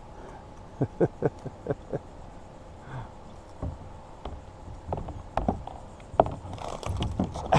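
Irregular knocks and clacks of fishing gear against the kayak while a small tarpon is fought on rod and reel, with a short splashy rush near the end.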